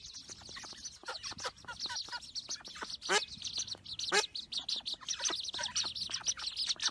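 Birds calling: a dense run of rapid, high chirps, with a few louder, lower calls about three seconds and about four seconds in.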